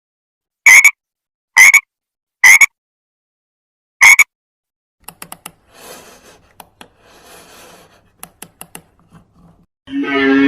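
Frog croaking: four loud, short croaks roughly a second apart, followed by fainter clicking and raspy calls.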